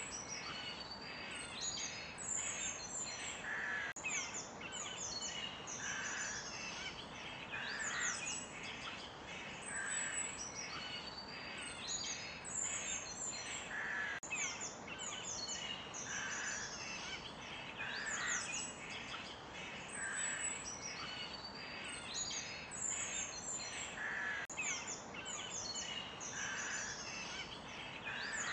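Forest birds chirping and singing busily, many short calls overlapping, over a steady background hiss.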